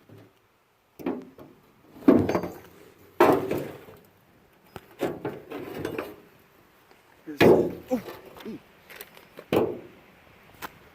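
Loose items being handled and lifted out of the back of a jeep's steel body: a run of irregular knocks and clunks, the loudest a couple of seconds in and again about halfway through.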